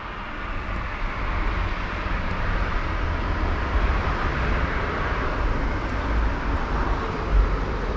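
Rushing noise of a passing motor vehicle, swelling over the first few seconds and then holding steady, with a low rumble beneath.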